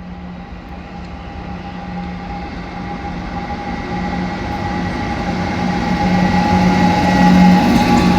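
Passenger express train approaching slowly, with a steady low hum and a fainter higher tone that grow louder as it comes closer.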